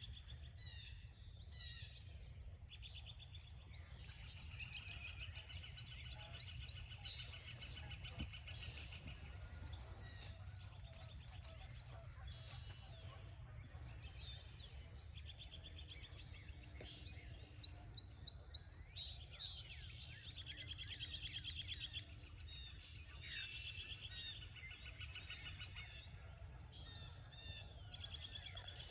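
Several wild birds singing and calling at once, with overlapping trills, repeated notes and quick down-slurred chirps throughout, over a steady low rumble.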